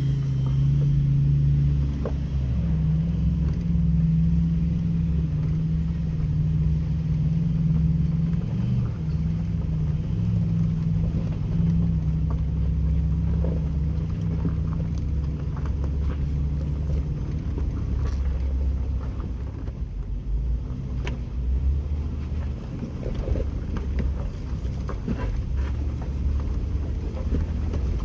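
Jeep Wrangler engine running at low, fairly steady revs, with scattered light clicks and knocks over it in the second half.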